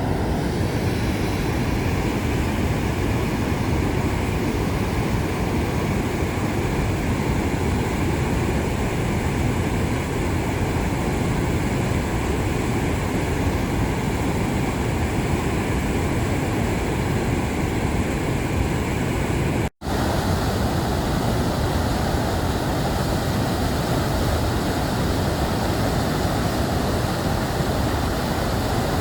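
Loud, steady rushing roar of a large waterfall heard close up from an overlook. It cuts out for an instant about twenty seconds in.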